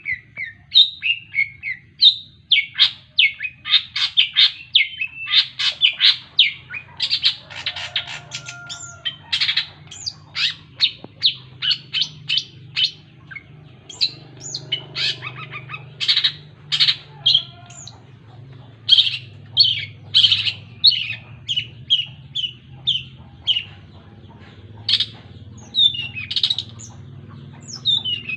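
Long-tailed shrike (cendet) singing a long, varied run of sharp, high chirps and harsh notes, some in quick rattling trills, over a faint steady low hum.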